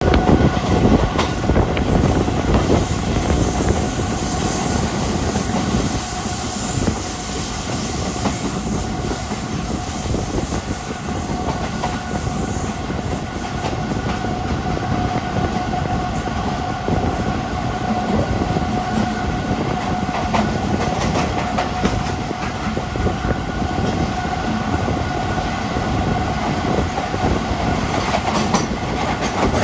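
Train running on the rails: a steady rumble with the clickety-clack of wheels over rail joints and a thin steady whine above it.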